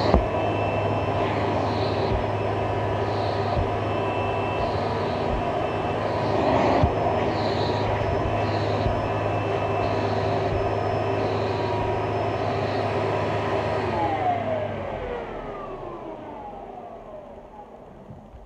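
1998 Hoover Soft and Light upright vacuum cleaner, a 7-amp machine, running steadily, then switched off about 15 seconds in, its motor winding down with a falling whine.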